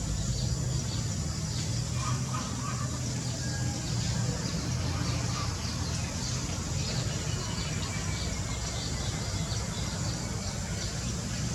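Small birds chirping and calling faintly over a steady low hum.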